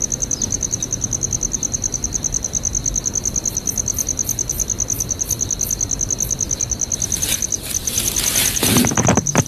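Cricket chirping steadily in a fast, even train of high-pitched pulses. From about seven seconds in, a louder noisy sound with some low rumble builds up toward the end.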